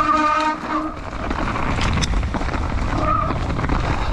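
Wind buffeting an action camera's microphone over the rumble of a mountain bike riding down a trail. A short, wavering pitched tone breaks up through the first second and sounds briefly again about three seconds in.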